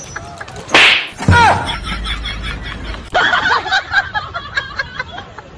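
Two sharp slap hits, the first a little under a second in and a heavier one about half a second later, amid short vocal sounds.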